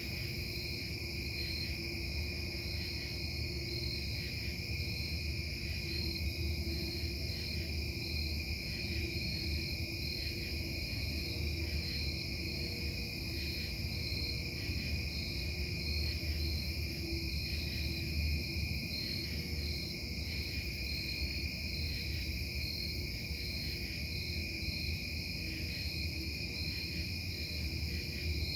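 Steady industrial noise from a distant metal-casting plant: a constant low rumble with several high, steady whining tones over it, unchanging throughout.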